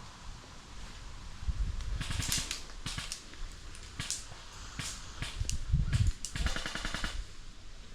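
Airsoft guns firing: single shots and rapid full-auto bursts of sharp cracks starting about two seconds in, with a longer rapid burst near the end, mixed with low thuds.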